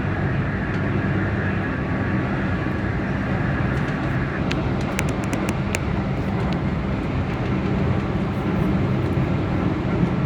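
Keihan electric train running, heard from inside the driver's cab: a steady low rumble, with a faint high tone that stops about halfway through and a quick run of sharp clicks just after.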